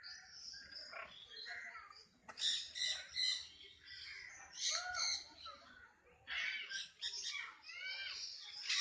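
Parrots squawking and chattering in bursts: several birds give harsh calls that rise and fall in pitch, with quieter chatter between the louder clusters.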